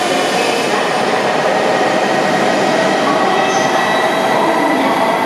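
H5-series Shinkansen train running past along the platform and pulling away: a loud, steady rush of wheels and air, with a faint whine over it, echoing under the platform roof.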